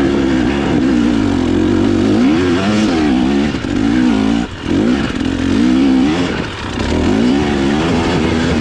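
Dirt bike engine revving up and down under changing throttle, the pitch rising and falling over and over, with a brief drop about four and a half seconds in.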